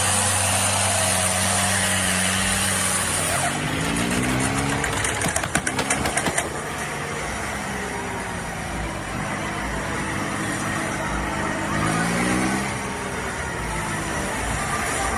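Tractor engine running under load, rising in pitch as it is revved up twice, about four seconds in and again near twelve seconds. A brief burst of rapid knocks comes about five to six seconds in.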